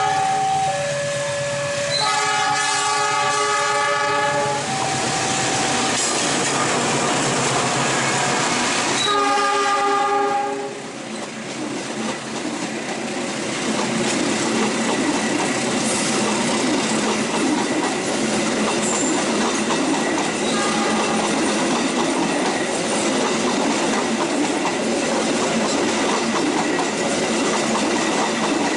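Train horn with several notes sounding together, blown three times over the first ten seconds, then the train running past with a steady rumble and the clatter of wheels on the rails.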